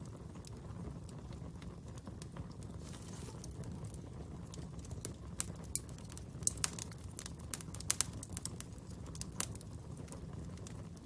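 Fire burning with a steady low rumble and scattered sharp crackles and pops, which cluster in the middle and later part.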